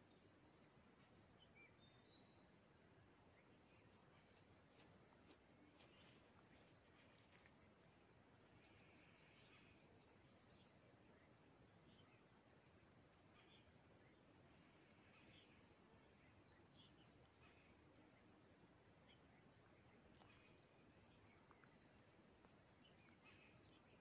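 Near silence: faint outdoor background noise with scattered small bird chirps every second or two, over a faint steady high-pitched pulsing.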